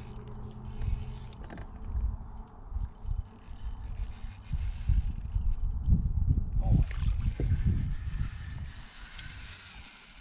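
Fishing reel being cranked and rod and boat handling noise while a hooked fish is fought, with low rumbling knocks and bumps throughout.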